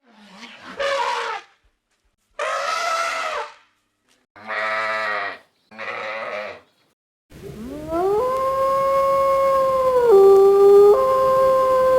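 Four short animal calls, each about a second long and separated by sudden silences, followed by a dog howling: one long held howl that rises at the start, drops in pitch for about a second and then climbs back.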